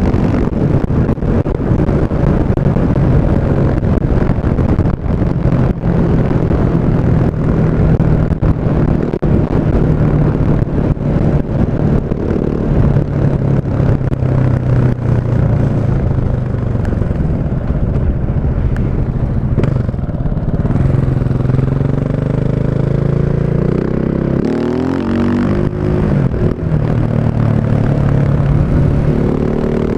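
KTM 690 Enduro's single-cylinder engine through an Akrapovic exhaust, running at fairly steady revs. About three-quarters of the way through the pitch dips and climbs again, and near the end the revs rise.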